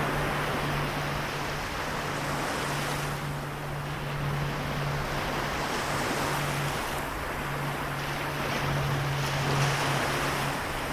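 Sea waves washing, a steady rushing with gentle swells in loudness, over a continuous low hum.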